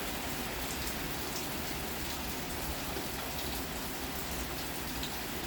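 Heavy rain pouring down steadily, an even rushing hiss with scattered faint drop ticks.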